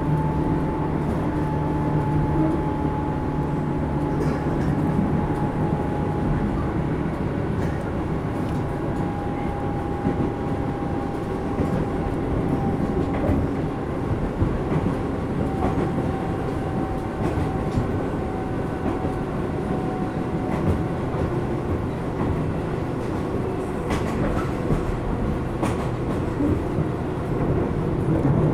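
Running noise inside a Tobu 10000-series electric train's motor car travelling between stations: a steady rumble of wheels on rail, with a thin whine that slowly falls in pitch.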